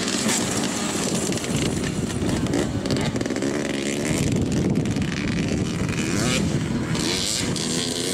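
Dirt bike engine running, its pitch rising and falling as it is revved.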